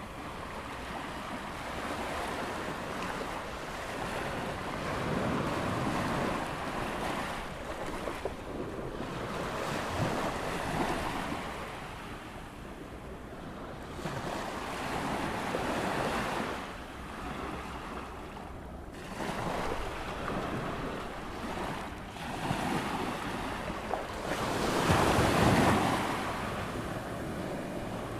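Ocean waves breaking and washing up a sandy beach on an incoming tide, surging in swells every few seconds, the largest near the end. Wind buffets the microphone throughout.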